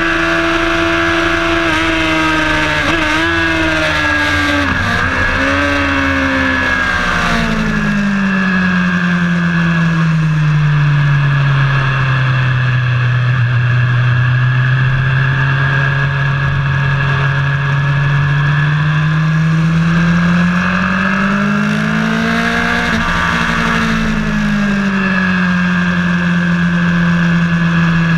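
Onboard engine sound of a vehicle lapping a race track: the engine note drops with a couple of shifts in the first few seconds, runs low through the middle, climbs again about twenty seconds in and shifts once more, over a steady rush of wind and road noise.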